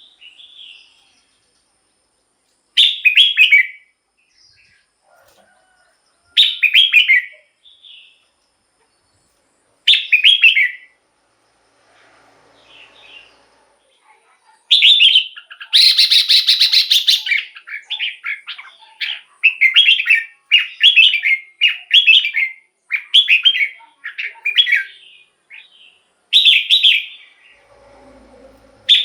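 Red-whiskered bulbul singing: short whistled phrases of about a second, repeated every three to four seconds. About halfway through comes a loud, harsh burst, then a quick run of a dozen or so short notes before the phrases return.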